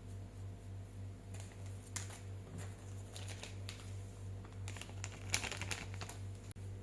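Scattered light clicks and taps, densest about five seconds in, over a steady low hum.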